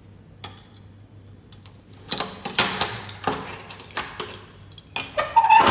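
Irregular clicks, knocks and rattling scrapes from objects being handled, with a brief squeak near the end.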